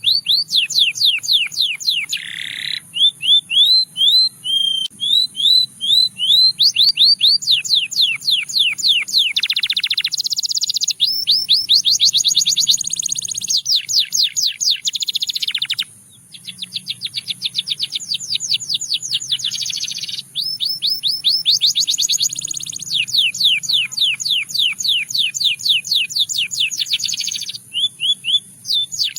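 Canary singing a continuous song of rapid trills, each phrase a fast run of repeated high notes, changing from one phrase to the next with brief pauses between some of them.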